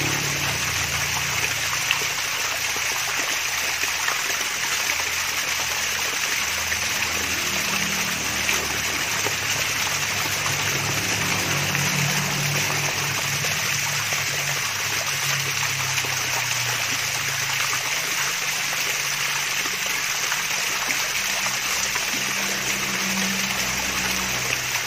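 Water from a small artificial waterfall splashing and trickling steadily, an even hiss of falling and running water.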